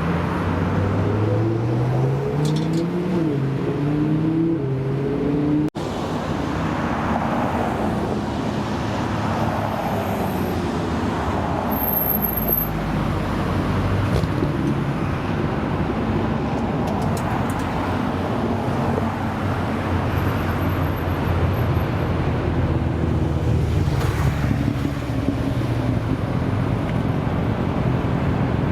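A car engine accelerating hard, its pitch climbing and dropping back several times as it shifts up through the gears. After a cut, steady engine and traffic noise.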